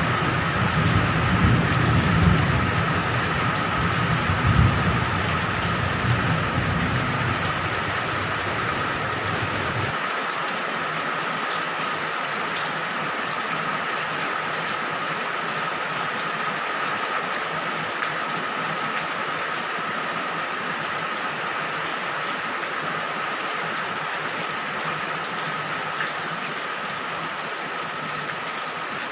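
Steady heavy rainfall, with a low rumble of thunder underneath that stops suddenly about ten seconds in, leaving only the rain.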